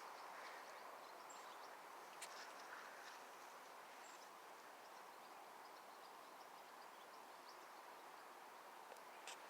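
Near silence: faint, steady outdoor background noise with a few faint ticks.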